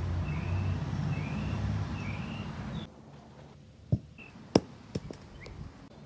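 A small bird chirping over and over above a steady low rumble, which cuts off suddenly about three seconds in. After that, quieter outdoor air with the same chirps and a few sharp knocks close by, the loudest about halfway through.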